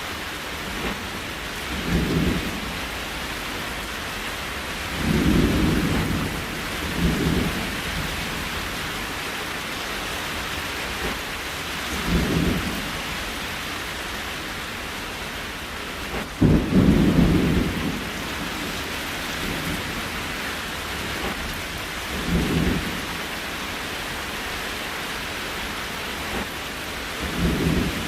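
Steady rain hiss, with a short low rumble every few seconds, seven in all; the loudest comes just after the halfway point.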